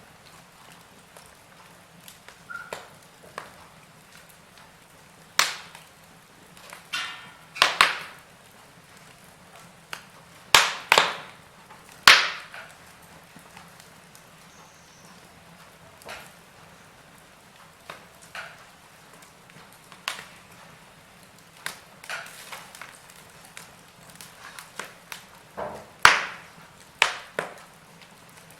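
Wood fire crackling in a fireplace: irregular sharp snaps and pops over a faint steady background, with a cluster of loud pops around the middle and another near the end.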